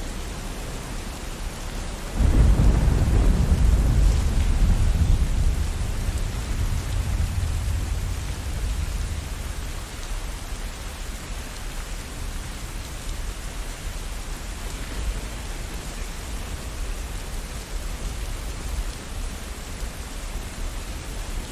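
Steady rain falling, with a clap of thunder that breaks about two seconds in and rumbles low, dying away over the next several seconds.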